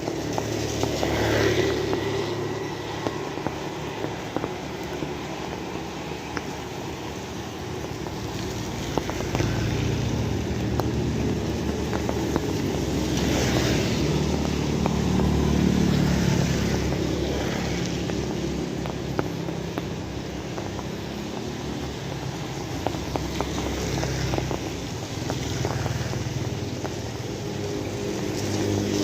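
Steady rain with scattered drips, while several motor vehicles pass one after another, each engine rising and fading over a few seconds.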